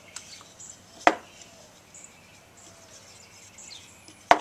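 Two sharp wooden knocks, about three seconds apart, as cut plywood birdhouse pieces are set down and handled on a workbench, with faint bird chirps in the background.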